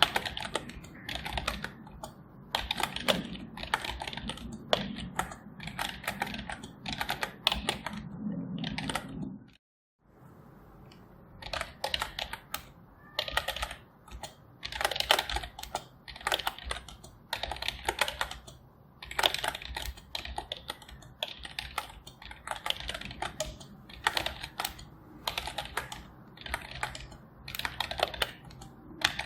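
Computer keyboard being typed on continuously, quick irregular keystrokes, with a brief pause a little under ten seconds in.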